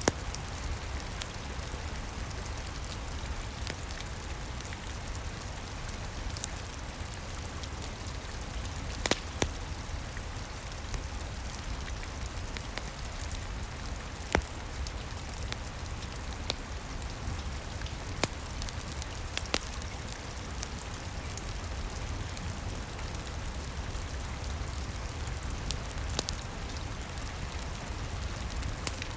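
Steady rain with a low rumble beneath it, and the occasional sharp crackle or pop of a wood fire every few seconds.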